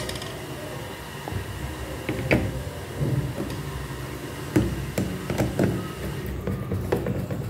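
Scattered knocks and clunks of washing machine parts being handled and put back in place, over a steady low hum.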